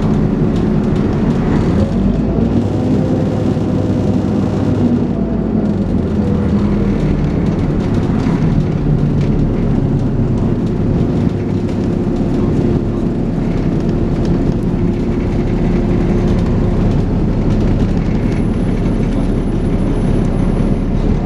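Dennis Trident 2 double-decker bus running under way, its engine drone steady and loud, with its pitch rising and falling in the first few seconds and then holding level as the bus cruises. A faint high whine comes in near the end.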